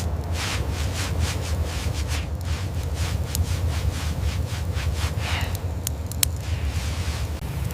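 Rhythmic scraping strokes, about three a second, over a steady low rumble, with several sharp cracks in the second half.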